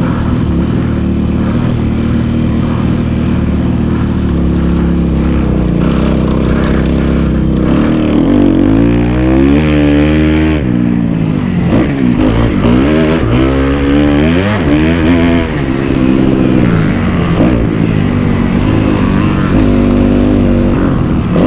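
Kawasaki KX250F four-stroke single-cylinder dirt bike engine under way on a motocross track, its pitch rising and falling again and again as the throttle is opened and closed and it shifts through the gears, with one big rev up and back down about halfway through.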